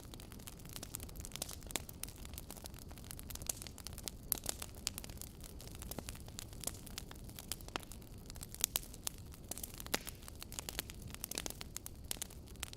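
Wood fire burning in a fireplace: irregular crackles and pops from the logs over a steady low rumble of the flames.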